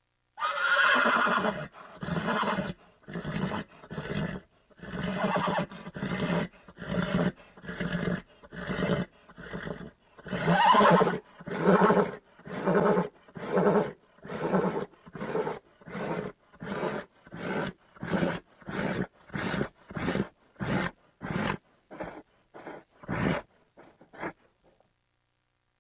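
Horse calling: a long whinny at the start, then a long series of short, evenly spaced neighing calls. The calls come about one a second and get quicker and shorter toward the end, with a louder call about eleven seconds in.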